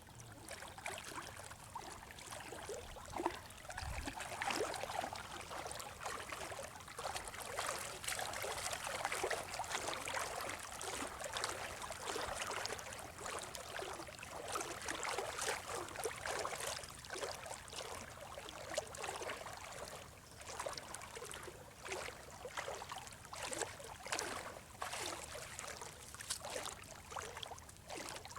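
Water splashing and trickling in many small, irregular splashes, with a dull thump about four seconds in.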